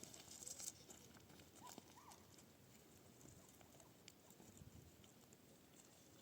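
Faint, scattered taps and clicks, a little louder near the start, with two short rising chirps about two seconds in.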